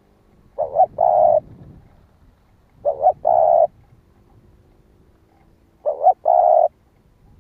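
Spotted dove cooing: three calls, each two short coos followed by a longer held coo, repeating about every two and a half seconds.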